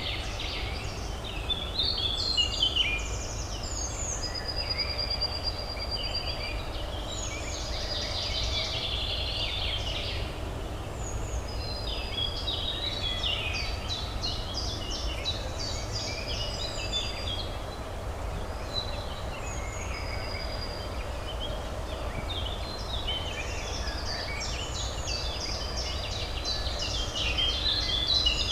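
Several songbirds chirping and trilling over one another, over a steady low hum of distant city traffic.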